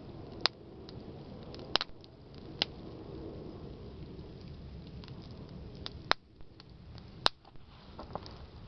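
Wood campfire burning, a steady low rush of flame with burning branches crackling over it: scattered small ticks and five sharp loud pops.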